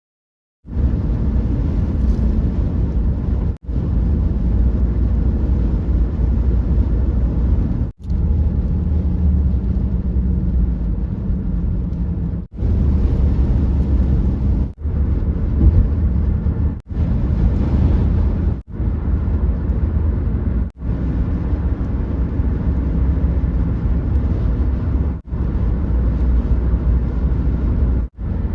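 Steady low rumbling noise, broken by abrupt cuts every two to four seconds.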